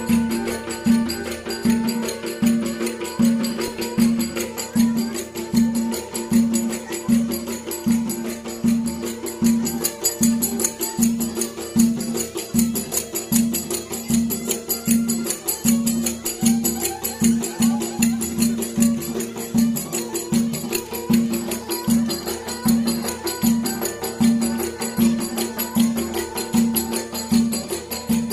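Turkish folk dance music: a drum beats about twice a second under a held melody line from a reed or bowed folk instrument.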